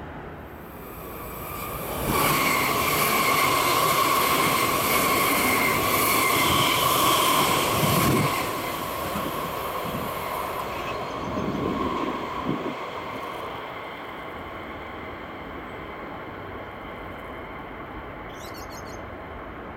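A train running past on the line, loud for about six seconds with a steady high whine or squeal over the rolling noise, then dying down to a distant rumble with a few knocks.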